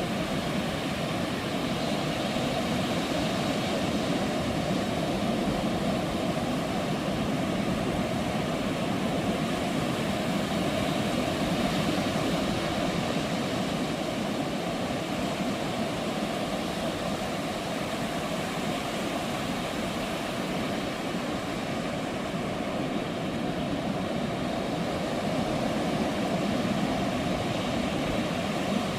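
Ocean surf breaking on a beach: a steady, continuous rush of waves with no distinct calls or knocks.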